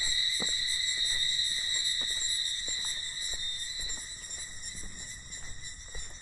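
A steady, high-pitched insect chorus, loudest early on and easing a little after about four seconds, with scattered light ticks beneath it.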